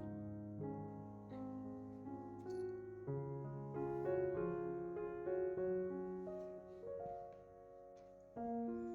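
Background piano music: slow, gentle sustained chords and melody notes, growing softer before a new chord sounds near the end.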